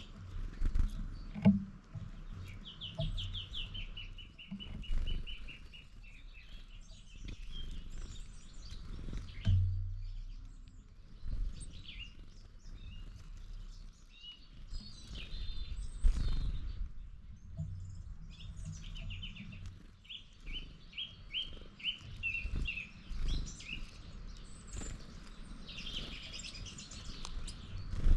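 Songbirds singing outdoors. Twice a bird gives a phrase of quickly repeated notes that falls slightly in pitch, with scattered chirps between the phrases. Low thuds and rumbles come through now and then.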